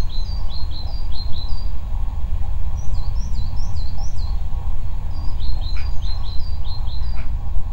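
A bird singing three phrases of quick, repeated high chirps, about four notes a second, with short gaps between phrases, over a loud steady low rumble.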